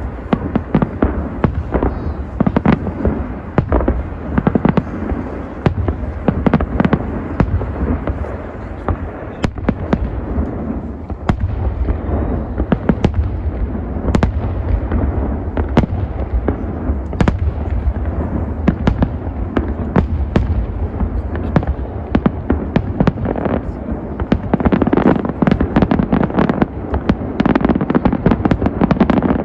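Large fireworks display: a continuous barrage of shells bursting in quick succession over a steady low rumble. The bangs grow denser and louder near the end.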